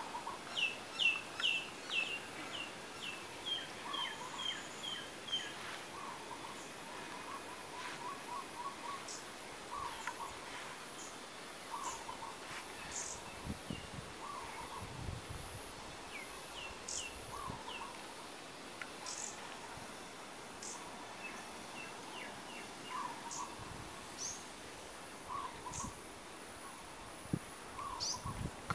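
Several birds calling: a quick run of about a dozen falling chirps in the first few seconds, then short repeated calls every second or two, with a thin steady high tone underneath.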